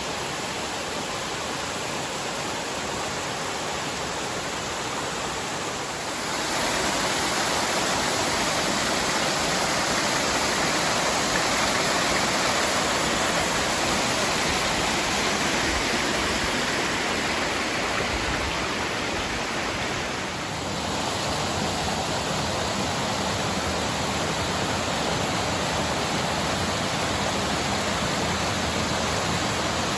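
Waterfall: a steady rush of falling water that gets louder about six seconds in, with a brief dip about twenty seconds in.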